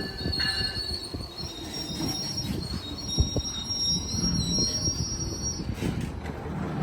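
Amtrak Capitol Corridor passenger train squealing high-pitched as it rolls at the platform, over a low rumble. The squeal wavers and cuts off about six seconds in, and there is one sharp click midway.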